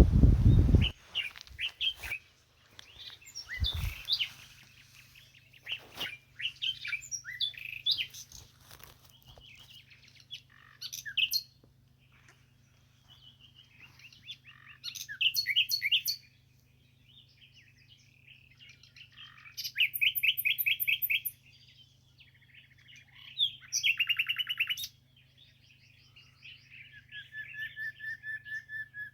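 Several small birds chirping and singing, with quick rattling trills about twenty seconds in and again a few seconds later. A low rumble, like wind or handling on the microphone, is heard in the first second and briefly again around four seconds in.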